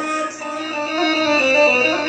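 Instrumental music from a mawwal: string instruments play a melodic phrase with sustained, gently ornamented notes between the singer's lines.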